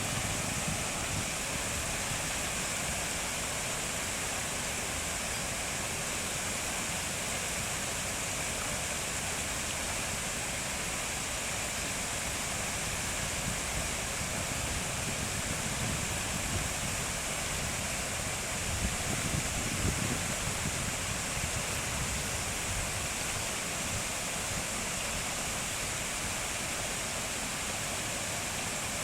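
Steady rushing noise with no distinct events, like running water or a broad outdoor hiss. Low, uneven rumbles come and go, most near the start and about two-thirds of the way in.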